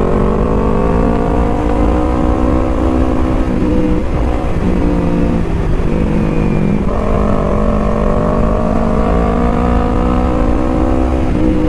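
Yamaha R3's parallel-twin engine with an aftermarket exhaust, pulling under way while ridden, with wind rumble. The engine note climbs steadily, drops off about three seconds in, picks up again about seven seconds in and climbs once more.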